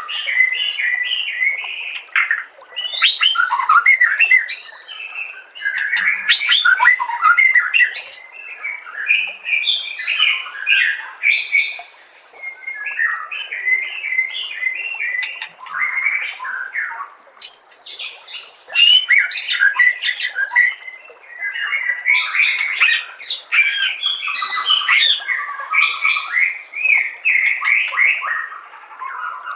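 White-rumped shama (murai batu) singing a long run of rapid, varied phrases, broken by a couple of short pauses.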